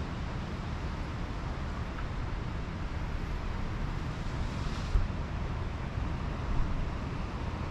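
Pacific Ocean surf washing on a sandy beach, mixed with wind rumbling on the microphone. A surge of louder hiss comes about five seconds in.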